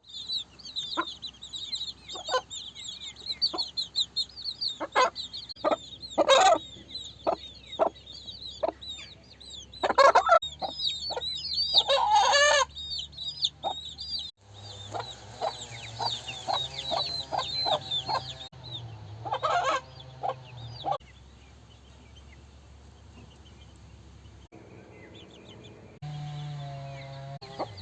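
Hens clucking amid a dense chorus of high-pitched peeping chicks, the sound changing abruptly several times between short takes.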